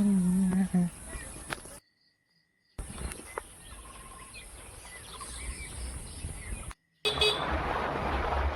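Outdoor ambience with a steady high insect drone and a few faint bird chirps, broken by two short cuts to silence. About seven seconds in, a louder steady rushing noise starts.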